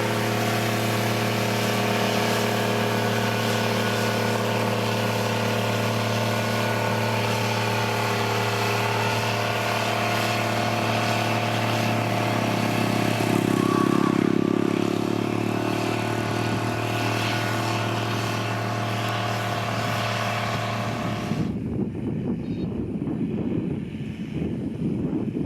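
A heavy construction machine's diesel engine running steadily, swelling louder for a moment about halfway through. Near the end the engine sound cuts off abruptly and a rough rumbling noise takes over.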